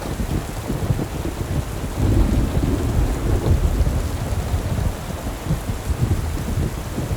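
Steady rain hiss over a deep, flickering rumble that swells about two seconds in.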